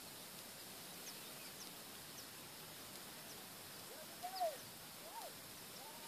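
Birds calling: faint, short, high chirps repeated every half second or so, then two louder, lower calls that rise and fall, about four and five seconds in, over a faint steady hiss.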